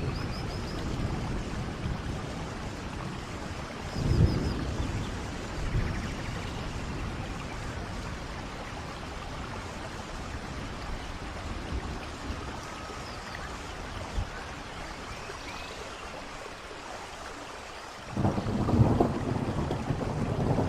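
Steady rain and rushing waterfall water. Low rumbles surge in briefly a few times, with a longer, louder one near the end.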